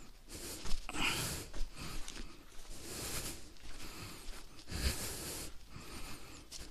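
A person breathing heavily, with several hissing breaths in and out about a second apart and a few light knocks.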